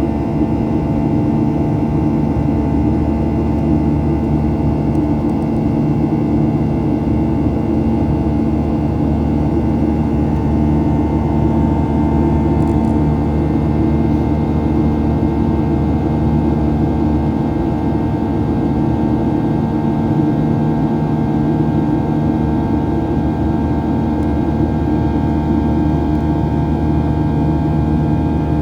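Boeing 737-800's CFM56 jet engines and rushing air heard inside the cabin: a steady drone with several constant hum tones.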